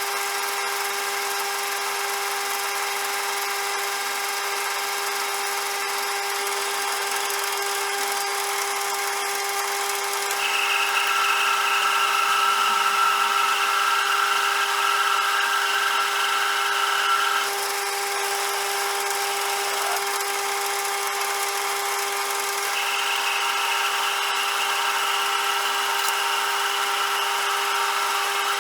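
CJM360 bench lathe running with a steady machine whine. About ten seconds in, a louder, higher whine joins for about seven seconds, and it comes back from about two-thirds of the way through until near the end.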